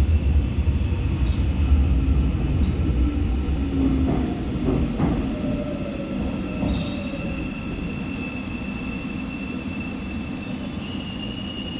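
Seoul Subway Line 4 electric train running and slowing as it pulls into a station: a low wheel-and-track rumble fades steadily, under a thin steady high whine that rises slightly near the end.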